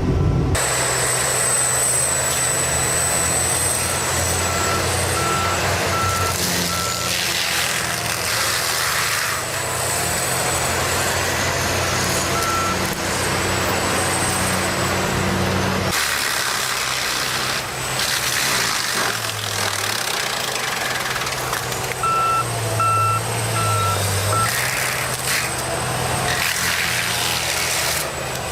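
Heavy machinery engine running steadily, with a back-up alarm beeping in a short run of evenly spaced beeps twice, about five seconds in and again near the end.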